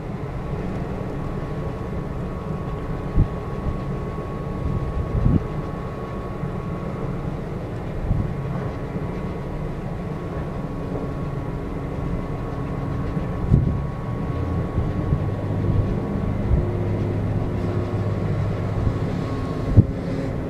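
Steady low drone of a coastal bulk carrier's machinery running while the ship berths, with a few steady tones in it and several single knocks scattered through.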